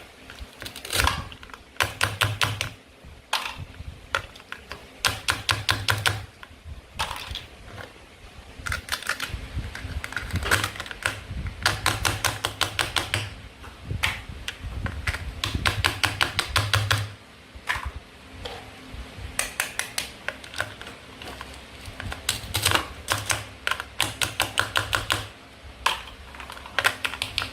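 Runs of rapid, sharp clicks and taps in bursts of a second or two, from plastic toy fruit and vegetable pieces being handled and cut.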